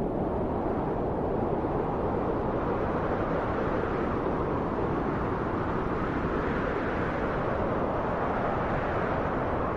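Steady wind blowing: a deep, even rushing, swelling slightly near the end.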